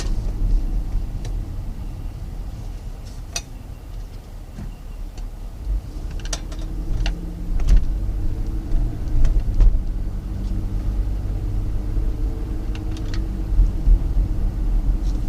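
Car driving, its engine and road noise a low steady rumble, with scattered short clicks.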